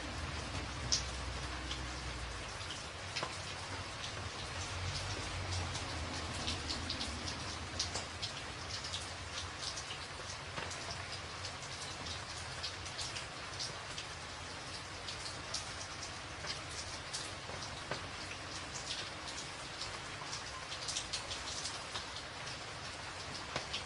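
Rain pattering on a tin roof: a steady hiss dotted with many sharp ticks of single drops striking the metal. A low rumble sits underneath in the first few seconds and fades out.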